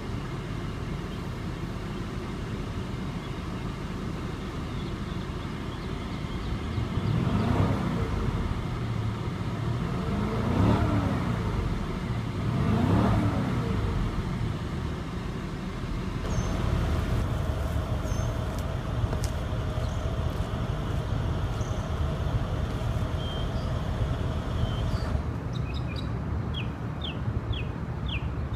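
Mercedes-AMG 5.5-litre twin-turbo V8 idling, then revved three times in quick blips, each rising and falling back, about seven, ten and thirteen seconds in, before settling back to a steady idle.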